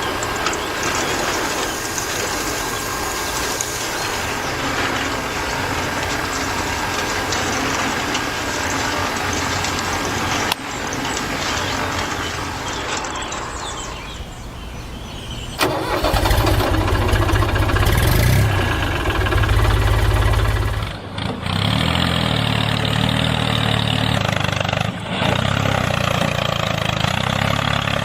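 A small engine starting and running: an even noise for the first half, then a sudden louder, deeper engine note a little past halfway that runs on, shifting its note about two-thirds of the way through.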